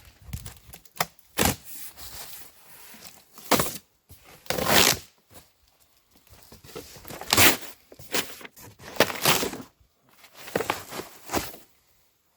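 Packaging being handled and torn open while unpacking accessories: irregular rustling, crinkling and tearing bursts, several of them loud.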